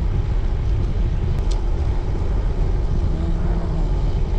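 Steady low rumble of wind buffeting the microphone of a road bike rider on the move.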